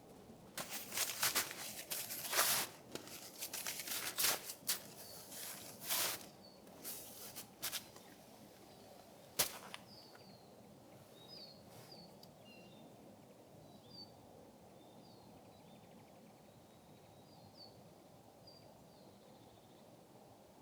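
Irregular rustling, crunching noises for the first several seconds, then one sharp click; after that, small birds chirp faintly and sporadically over a steady low outdoor hiss.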